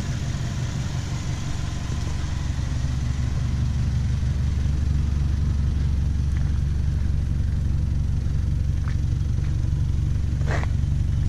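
Subaru Forester's flat-four boxer engine idling steadily as the donor car for a jump-start, a little louder from about two seconds in.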